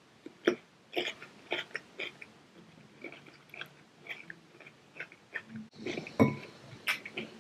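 Close-miked mouth sounds of a child chewing and lip-smacking, a string of short wet clicks, with a couple of louder knocks near the end.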